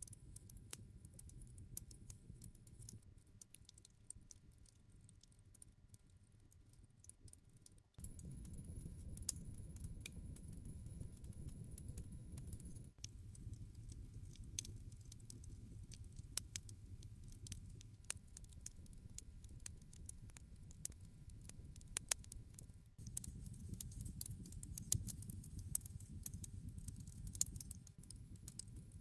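Campfire crackling, with irregular sharp pops and snaps of burning wood over a low rumble of flame. The fire grows louder suddenly about eight seconds in and shifts level abruptly a few more times.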